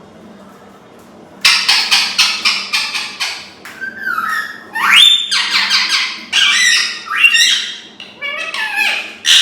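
Pet parrot squawking: a fast run of harsh, high calls, several a second, starting after about a second and a half, with a few rising whistle-like glides in the middle.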